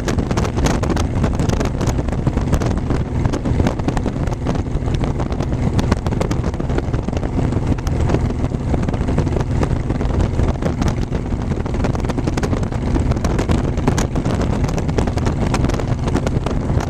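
Wind buffeting and crackling on the microphone of a camera riding along on a moving motorcycle, with a steady low engine drone underneath.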